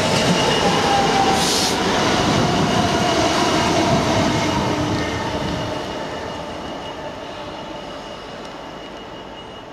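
Class 66 diesel locomotive passing close, its EMD two-stroke V12 running, then fading as it draws away. An electric passenger train passes on the other track about four seconds in, adding its rush and whine.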